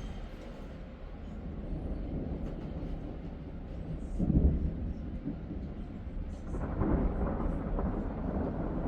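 Thunder rumbling low and rolling, swelling to a loud peak about four seconds in and building again near the end.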